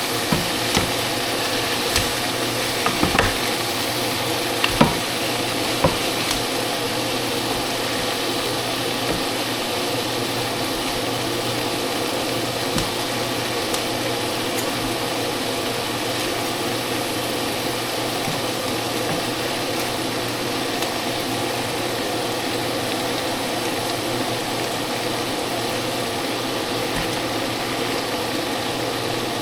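Food sizzling steadily in a frying pan, with a few sharp clicks of a utensil stirring against the pan in the first several seconds.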